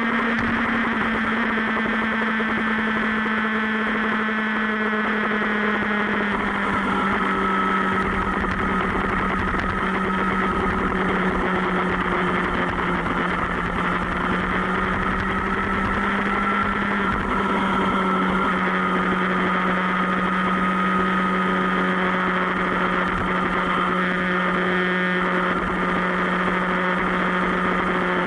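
Superbike engine running steadily at cruising speed, its pitch drifting only slightly up and down. A low, gusty rumble of wind on the microphone joins about eight seconds in.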